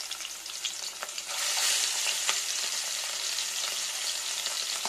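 Prawns sizzling as they fry in hot mustard oil in a stainless-steel kadai, with a spatula clicking and scraping as they are pushed about. The sizzle gets a little louder just over a second in as more prawns go into the oil.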